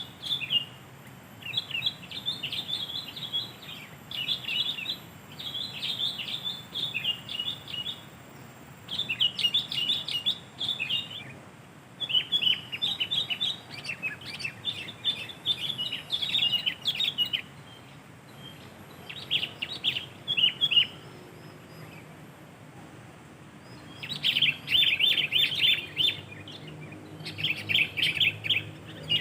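Sooty-headed bulbul singing: short chattering phrases repeated every second or two, with a few brief pauses.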